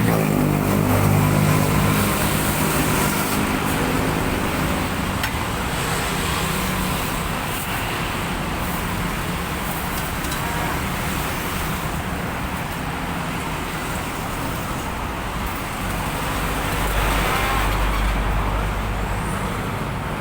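Road traffic passing close by, a steady mix of vehicle engines and tyre noise. One engine drops in pitch as it goes by at the start, and a heavier low rumble passes near the end.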